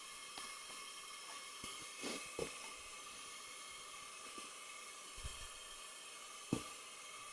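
A faint steady hiss with a few light knocks and clunks from handling in the workshop; the sharpest knock comes about six and a half seconds in.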